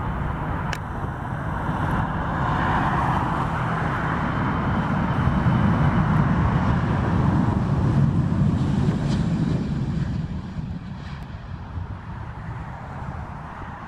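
Jet aircraft passing on or over the runway: a steady engine rumble and rush that swells to its loudest midway, then fades.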